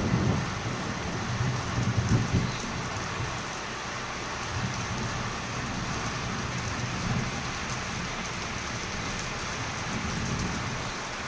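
Heavy rain pouring down steadily, with a low rumble in the first couple of seconds.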